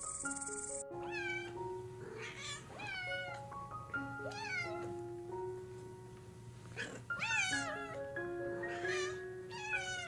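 Domestic cat meowing repeatedly over background music with a slow, stepping melody. A cricket's high trill sounds for the first second and then cuts off.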